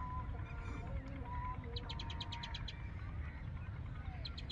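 Birds calling: a rapid trill of short high notes about two seconds in and again near the end, with thin whistled notes between, over a steady low rumble.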